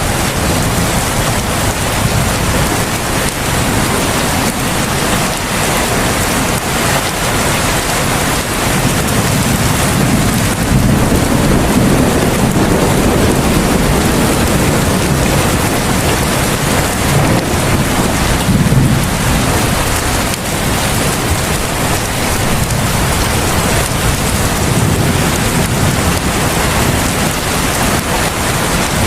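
Heavy rain falling steadily: a dense, even hiss, with a low rumble that swells now and then.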